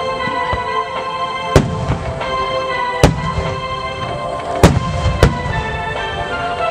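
Large aerial firework shells bursting overhead: four loud booms about a second and a half apart, the last two close together, over continuous music.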